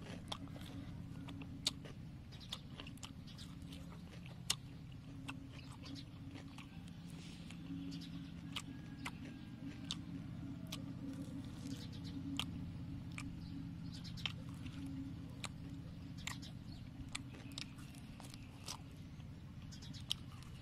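Close-up eating of crispy fried pork ribs: chewing and gnawing with many irregular sharp crunches and mouth clicks, over a steady low hum.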